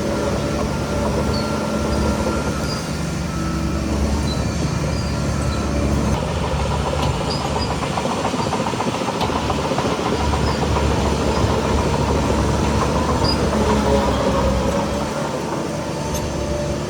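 Heavy diesel earthmoving machinery running steadily under load, with a continuous metallic clatter and rumble.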